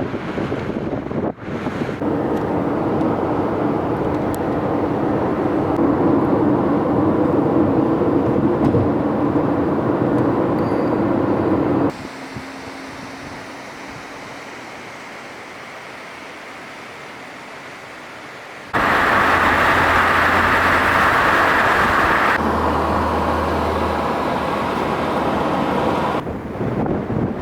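Car on the road: steady engine and tyre noise, changing abruptly several times across a series of cuts.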